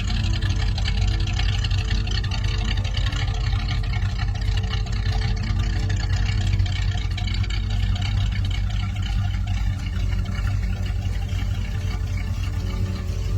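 1971 Oldsmobile Cutlass's 455 V8 engine running steadily at idle.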